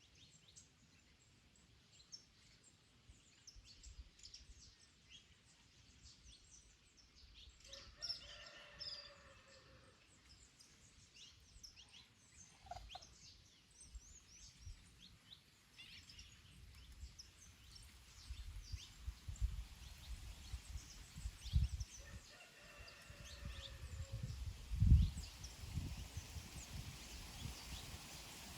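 Small songbirds chirping throughout, and twice a longer, lower call from a domestic fowl, each lasting about a second and a half. Low gusts of wind rumble on the microphone in the second half, the strongest about 25 seconds in.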